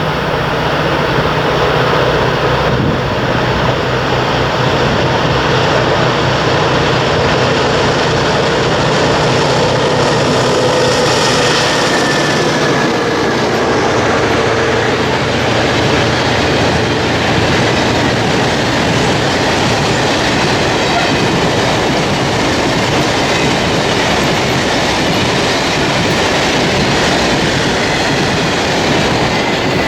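Freight train passing close by at speed: a diesel locomotive's engine drone in the first dozen seconds, then a long steady rumble and clatter of wagons rolling past on the rails.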